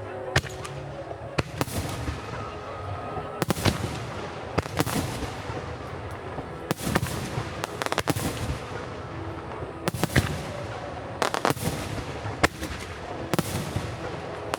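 Starmine fireworks barrage: a dozen or so sharp bangs of shells bursting overhead, often in close pairs, with recorded music for the display playing underneath.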